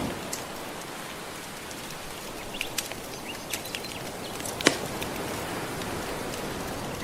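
Soft ocean waves washing steadily, with a wood fire crackling over them in scattered sharp pops; the loudest pop comes about two-thirds of the way through.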